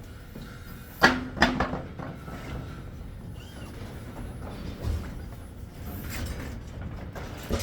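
A quick cluster of sharp knocks about a second in, the first the loudest, with a short ringing after them, over a steady low background rumble.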